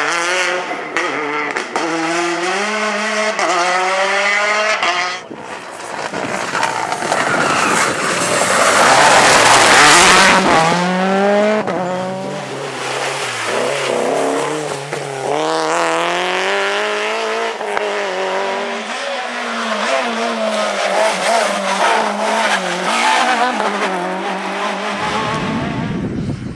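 Rally car engines at full throttle, revving up and dropping back through a series of gear changes, with tyre squeal. About five seconds in there is an abrupt cut to another car, and a loud rush of noise around the ninth second.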